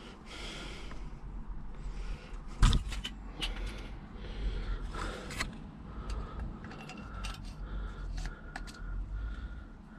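Small metal parts being handled and fitted: scattered light clinks, ticks and scrapes, with one sharper knock about two and a half seconds in.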